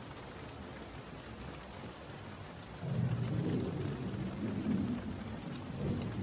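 Steady rain falling, with a low roll of thunder rumbling in about three seconds in and fading near the end.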